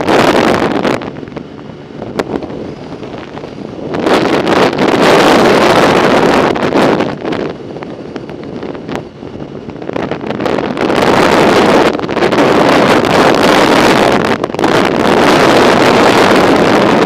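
Wind buffeting the microphone of a camera riding along on a bicycle: a loud rushing roar that surges and eases in long swells, quieter for a few seconds near the start, then loud again for most of the rest.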